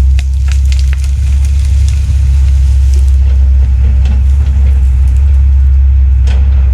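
Heavy diesel land-clearing machinery running with a steady, loud low drone. Sharp cracks of breaking wood and branches come about half a second in and again near the end.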